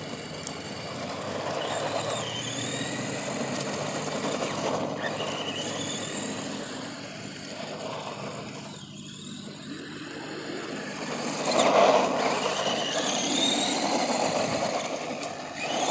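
ARRMA Granite Voltage RC monster truck driving, its electric 540 motor and gears whining up and down in pitch with the throttle over tyre noise. It eases off about nine seconds in, then speeds up again around twelve seconds.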